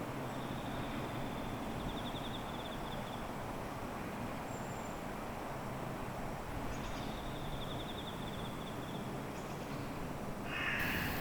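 Steady outdoor background noise with a rapid, high trill heard twice, about two seconds in and again from about seven to nine seconds in; something louder comes in near the end.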